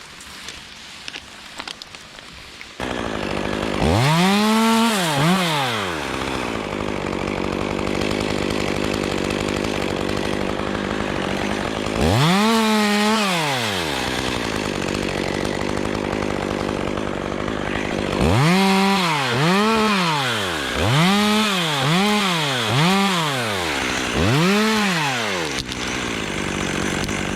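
A two-stroke chainsaw starts about three seconds in and idles, and is revved in short bursts: once, again about ten seconds later, then five or six quick blips near the end.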